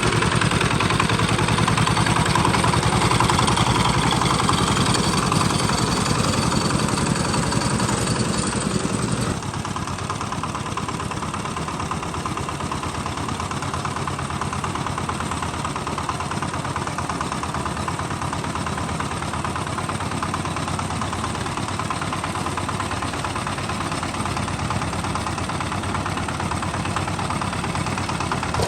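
Tractor engine running steadily with a fast, even chug; about nine seconds in the sound abruptly drops quieter and duller, then carries on steady.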